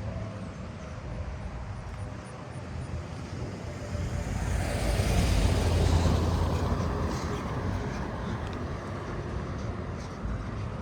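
A motor vehicle passing by, its engine and road noise rising to loudest about five to six seconds in and then fading away.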